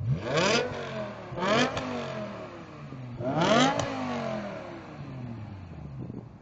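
BMW M5 with its exhaust resonators deleted, blipped three times: each rev climbs quickly and falls away, then the engine settles back toward idle.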